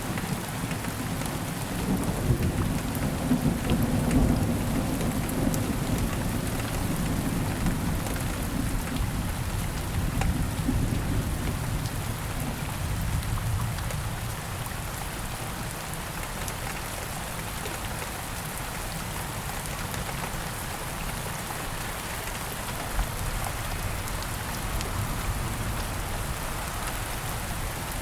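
Steady rain falling, with a long low rumble of thunder through the first half that dies away.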